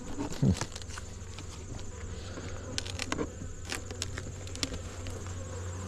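Honey bees buzzing steadily around an opened hive box, with a few light clicks about three and four seconds in.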